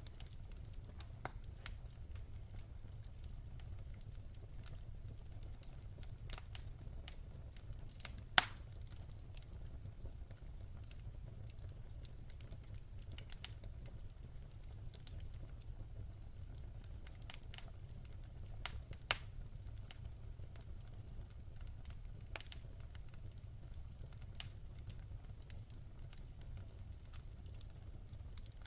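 Campfire crackling, with irregular sharp pops and snaps over a low steady rumble. One pop about eight seconds in is much louder than the rest, and two more stand out a little after the middle.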